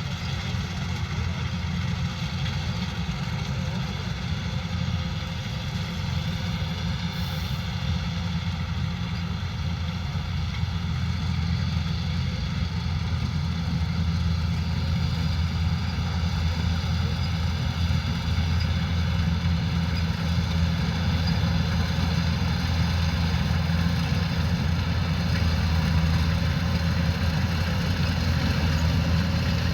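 Kubota combine harvester's diesel engine running steadily under harvesting load, a continuous low engine drone with a steady mechanical hum above it, growing slightly louder about halfway through.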